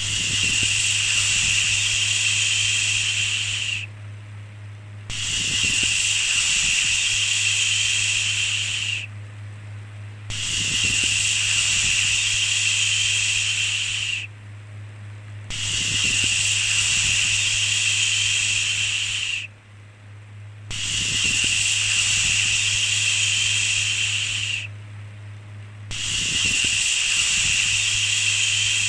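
A long "shhh" shushing sound, repeated about six times, each shush lasting about four seconds with a short pause between them, over a steady low hum.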